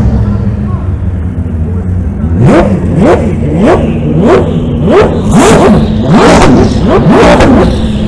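Koenigsegg hypercar engine revved over and over in quick blips, about nine short rising sweeps in a row, each ending in a brief rush of hiss, over a steady idle.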